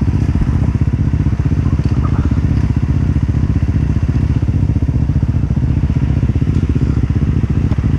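Four-stroke dirt bike engine idling steadily, with an even low pulsing beat.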